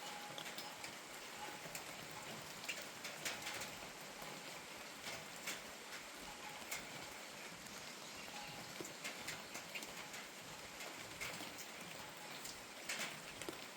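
Steady rain falling, a soft even hiss with scattered louder drops tapping at irregular moments, the clearest about three seconds in and near the end.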